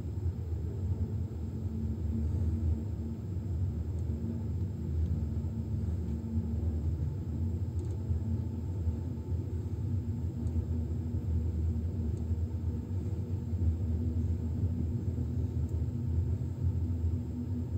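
Passenger train in motion: a steady low rumble of the running train, with a faint steady hum over it.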